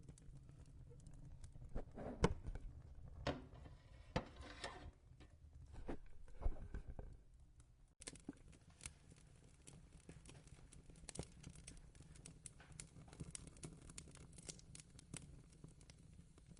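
Fireplace crackling: scattered sharp pops and snaps over a steady low rumble, with denser rustling crackle in the first half.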